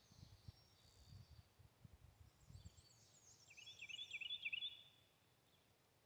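A songbird sings one short phrase of quick repeated high notes about halfway through, over faint low rumbling in the first half and otherwise near-quiet outdoor background.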